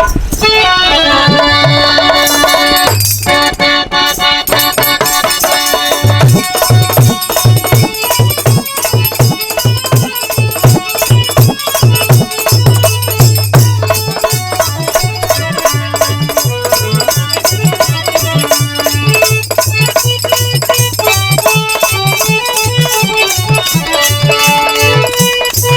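Instrumental introduction to a Bhojpuri birha folk song: a sustained melody line with fast, steady jingling percussion, joined about six seconds in by a regular low hand-drum beat.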